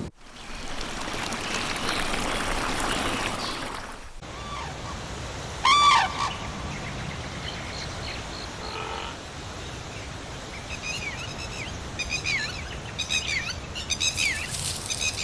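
Birds calling over a steady hiss of forest ambience. About six seconds in there is one loud, harsh honking call, and near the end a run of short, repeated chirps. For the first four seconds a denser hiss covers everything, then cuts off sharply.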